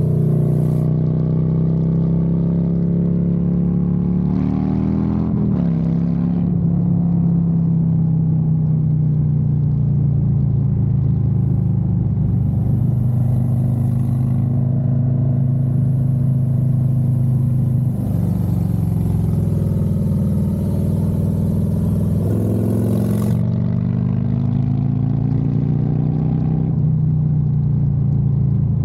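Harley-Davidson Road Glide's V-twin engine running under way, its note rising twice as the bike accelerates, about five seconds in and again past the twenty-second mark. A rushing hiss of wind over the microphone comes in around the middle.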